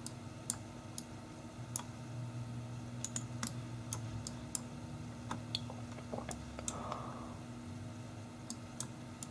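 Irregular clicking at a computer, scattered single clicks a fraction of a second to a second apart, over a steady low hum.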